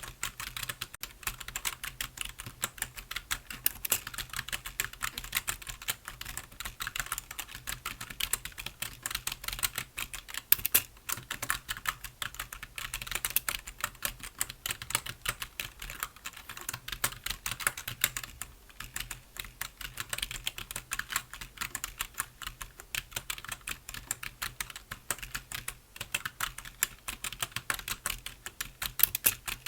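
Computer keyboard being typed on continuously, a fast run of key clicks with a few brief pauses.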